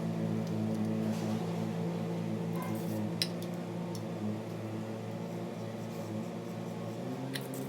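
Manual lathe's motor running with a steady hum, broken by a few short sharp metallic clicks about three and four seconds in and again near the end.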